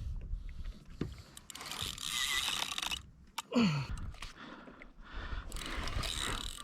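Fishing reel being cranked hard, its gears grinding and clicking in uneven spells as a yellowfin tuna is brought up to the kayak. About three and a half seconds in there is a short falling sound, the loudest moment.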